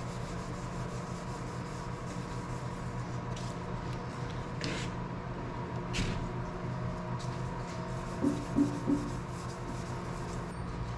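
Scotch-Brite pad scuffing a painted, glossy sheet-metal panel by hand: repeated light rubbing strokes, roughing up the too-glossy paint so the clear coat will stick. Three short louder sounds come about eight seconds in.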